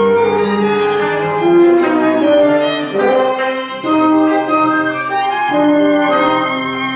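Contemporary classical chamber music for 25-string kayageum, flute, clarinet, horn, violin, cello and percussion, with the violin to the fore. Several instruments hold overlapping notes that move to new pitches every second or so.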